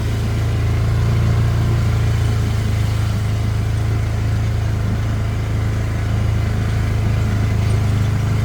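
A vehicle's engine running steadily with an even, low hum.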